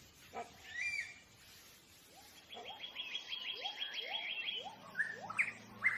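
Forest birds calling: a short chirp, then a rapid high trill lasting about two seconds, with a run of short rising lower notes repeating two or three times a second, and a few sharp chirps near the end.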